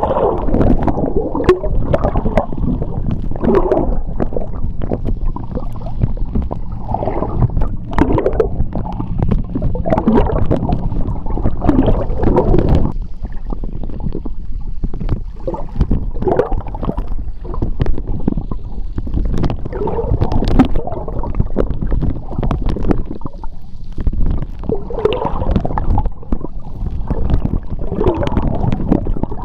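Seawater heard from underwater: a constant low rumble of moving water with repeated gurgling bubble bursts and scattered sharp clicks.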